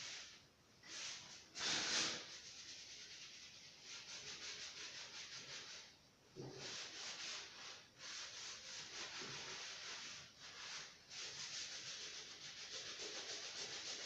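Sandpaper rubbed by hand over a surface in several bouts of quick back-and-forth strokes, with short pauses between bouts.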